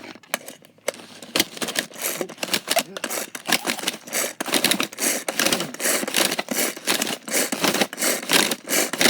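Pull-cord food chopper being yanked repeatedly, its spinning blades chopping bread in quick clattering bursts that start about a second and a half in.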